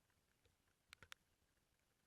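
Near silence with a faint hiss, broken about a second in by three faint, sharp clicks in quick succession.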